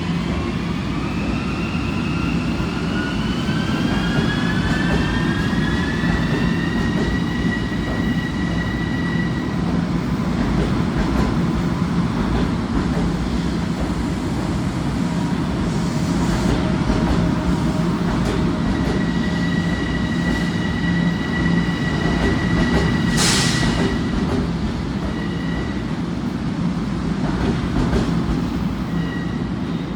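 Passenger train running, with a rising whine over the first several seconds as it gathers speed, then a steady rumble with a faint held whine. A brief sharp hiss cuts in about three quarters of the way through.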